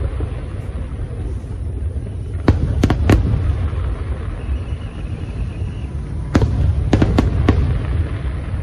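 Fireworks display: aerial shells bursting in sharp bangs, a cluster of three about two and a half seconds in and another four around six to seven and a half seconds, over a continuous low rumble of booms.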